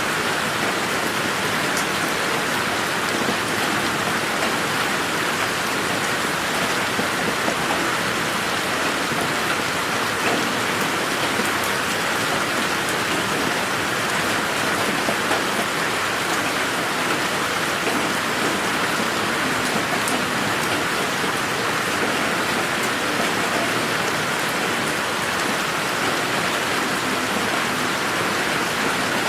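Steady rain falling on a garden: an even, unbroken hiss of drops with scattered sharper drop ticks. It is processed as 8D audio, moving around the listener.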